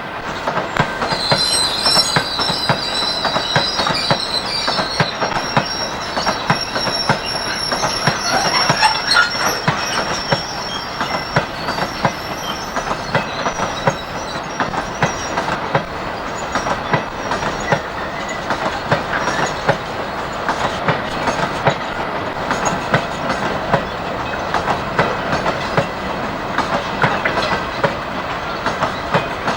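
Freight train wagons rolling past on the rails, their wheels clicking steadily over rail joints. High-pitched wheel squeal rings over the clatter for the first dozen seconds or so, then fades.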